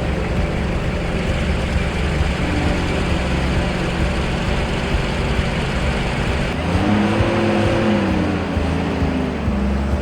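Motor vehicle engine running steadily, with a rise and then fall in pitch about seven to eight and a half seconds in.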